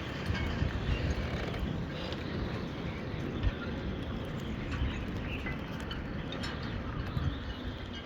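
Strong wind gusting around the boat and buffeting the microphone in an uneven low rumble, with scattered small knocks and clicks.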